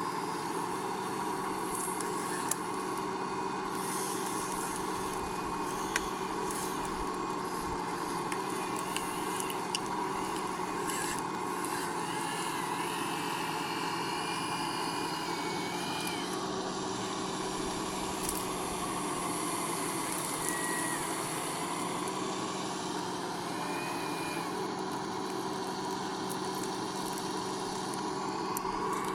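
Radio-controlled construction models running: a steady, even whine of small electric motors, with a few brief rises and falls in pitch around the middle and a couple of faint clicks in the first few seconds.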